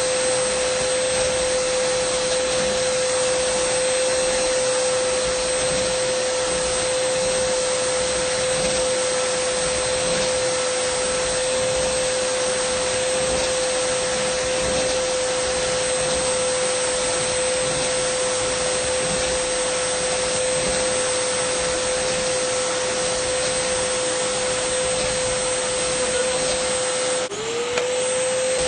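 Dyson vacuum cleaner running steadily: a high motor whine over a rushing airflow hiss. Near the end the whine briefly drops in pitch and comes back up.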